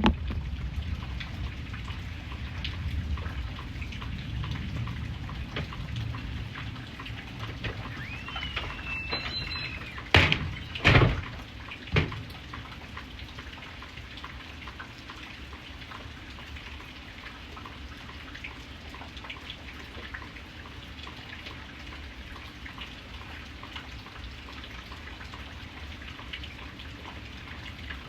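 Steady rain falling. A low rumble underlies the first ten seconds or so. A short high squeak comes just before three loud knocks, about a second apart, some ten seconds in.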